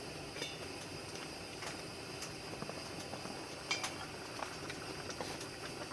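Light clicks and clinks of cooking utensils and dishes over a steady hiss, with one sharper clink a little past halfway.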